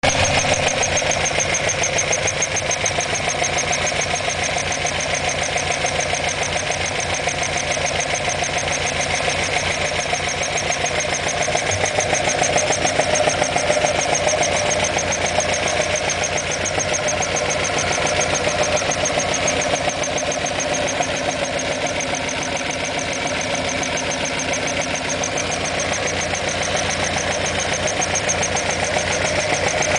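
Alfa Romeo Alfetta GTV 2.0's twin-cam inline-four engine running steadily at idle, without revving.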